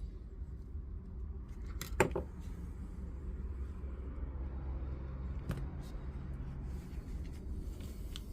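A few sharp clicks and knocks of the plastic clamshell housing of a DeWalt DCS355 multi-tool being pried apart, the loudest about two seconds in and another past the middle, over a low steady hum.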